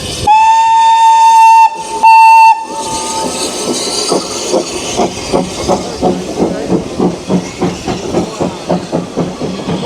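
Steam locomotive whistle sounding twice, a long blast and then a short one. The locomotive then exhausts in a steady chuff, about two and a half beats a second.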